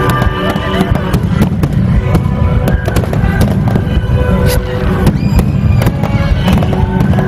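Aerial firework shells bursting in quick succession, a dense run of sharp bangs and crackles, with music playing along underneath.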